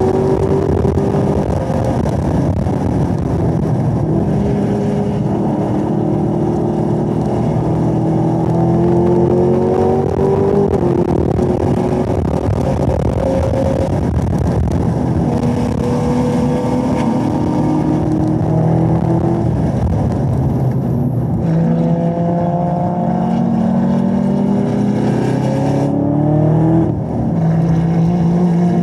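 Supercharged 6.2-litre LT4 V8 of a Camaro ZL1 running hard on track, heard from inside the cabin. Its pitch climbs and falls with throttle and gear changes of the ten-speed automatic. Near the end it lifts off and drops in pitch through downshifts as the car slows from about 100 mph to a slow corner.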